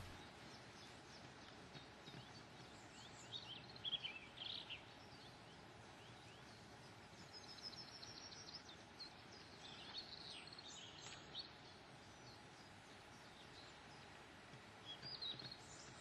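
Near silence with faint songbird chirps and twitters in scattered short phrases.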